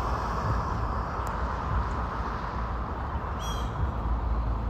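Steady low rumble with an even hiss over it, and a short bird call about three and a half seconds in.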